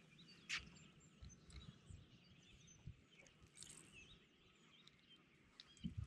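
Near silence: faint outdoor quiet with small birds chirping in the distance, one sharp click about half a second in and a couple of low thumps near the end.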